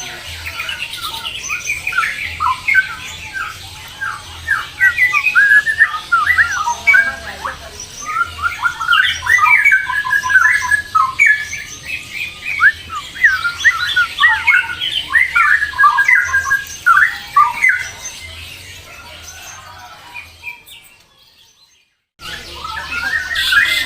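Birds chirping and squawking in rapid, overlapping calls, a dense run of short rising and falling notes. The sound fades out almost completely about 21 seconds in and returns a moment later.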